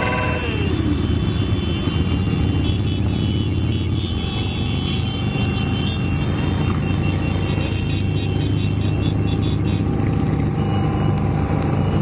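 Harley-Davidson Sportster 883's V-twin engine running at a steady cruising pace while riding in a large group of motorcycles, with wind noise over it.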